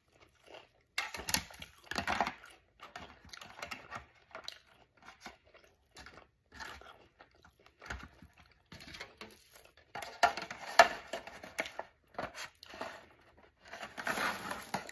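Crisp crunching and chewing of a deep-fried spring roll, close up: many short, irregular crunches. Near the end, a louder crinkle as the aluminium foil pan is handled.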